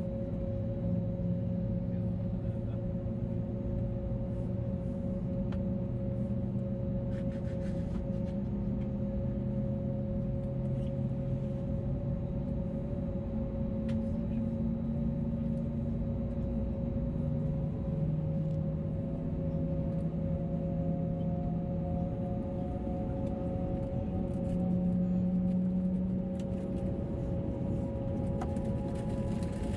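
Airbus A321neo engine drone heard inside the cabin: a steady hum with several held tones over a low rumble. The lower tones shift in pitch every few seconds, and a faint whine rises slowly in the second half.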